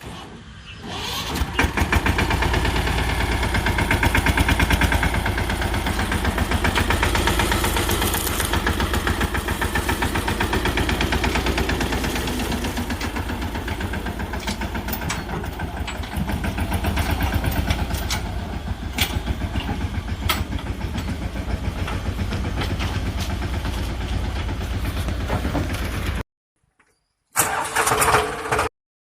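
Heavy diesel engine running with a steady, rapid clatter, building up over the first couple of seconds. It cuts off abruptly near the end, followed by a brief, loud burst of a different noise.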